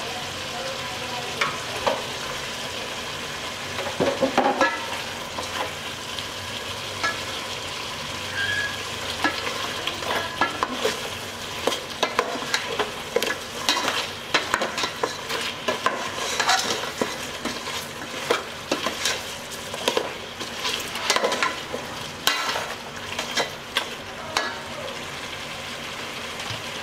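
Chicken pieces frying in hot oil and spice paste in a metal pot: a steady sizzle, with a utensil stirring them and repeatedly scraping and knocking against the pot.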